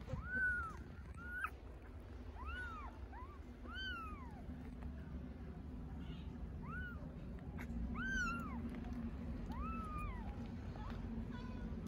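Hungry kittens meowing repeatedly for their mother cat, high-pitched meows that rise and fall, about eight or nine of them, over a steady low hum.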